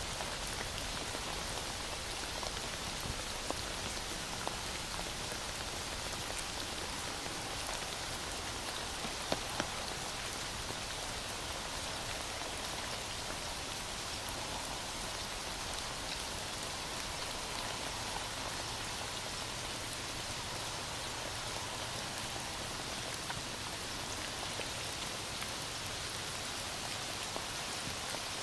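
Heavy rain falling steadily, pattering on a surface, with two short ticks about nine seconds in.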